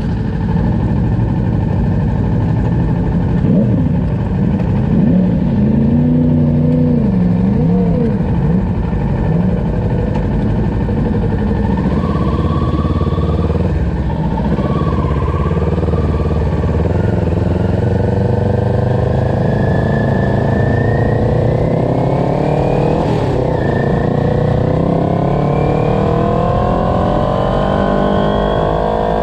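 Sport motorcycle engine pulling away from a standstill. It runs at low revs at first, then its pitch climbs steadily as the bike accelerates, dipping briefly about three quarters of the way through before climbing again.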